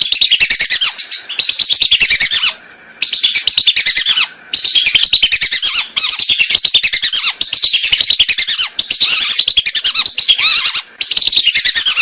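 Recorded call of whistling ducks (belibis) played as a hunting lure: rapid, high whistled notes, each sliding downward, in runs of about a second with short breaks between them.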